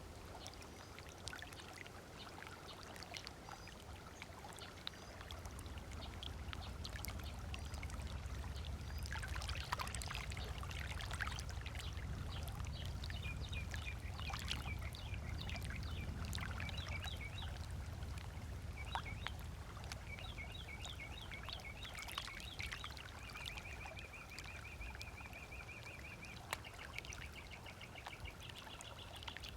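Gentle water lapping on a lakeshore beach, with small splashes and clicks, while birds call: quick repeated chirps from about halfway and a steady trill near the end. A low rumble swells through the middle and fades.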